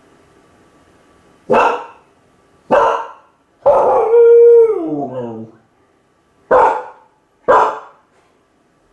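Kai Ken dog, left home alone, barking twice, then giving one howl that holds its pitch and then slides down, then barking twice more.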